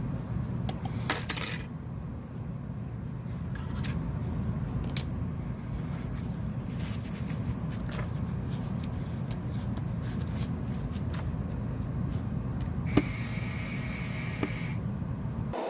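Small metal clicks and scrapes of a screwdriver taking the tiny screws out of a Samsung Galaxy S8's inner frame, over a steady low hum. A high steady whine lasts about two seconds near the end.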